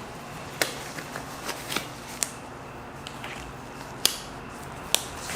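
Scattered sharp clicks and light plastic rattles from handling a broken laptop, about five distinct clicks spread irregularly over a few seconds.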